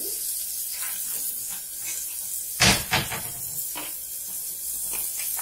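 Small chicken pieces with onion and spices sizzling in ghee in an aluminium pressure cooker, a steady hiss. About halfway through come two sharp knocks a fraction of a second apart, the loudest sounds, then a few fainter clicks.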